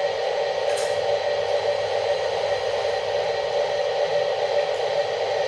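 Small electric motor and gearbox of a radio-controlled toy construction machine running with a steady buzzing hum, with a short scraping hiss about a second in.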